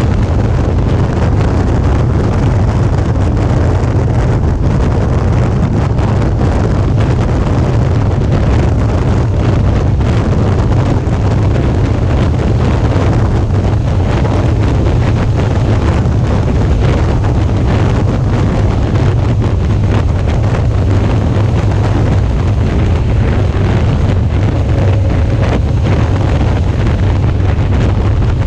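Steady wind noise rushing over the GoPro's microphone as a Suzuki V-Strom 650 motorcycle rides along at speed, with a low rumble underneath from the bike's 645 cc V-twin engine running.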